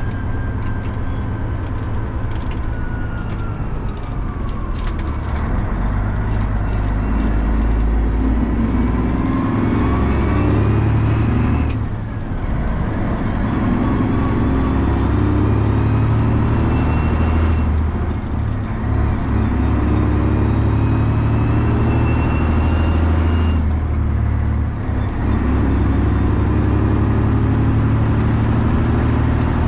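Straight-piped 12.7-litre Detroit Diesel Series 60 engine of a Freightliner semi-truck pulling through the gears, its pitch rising in each gear with brief dips about 12, 18 and 24 seconds in as it upshifts.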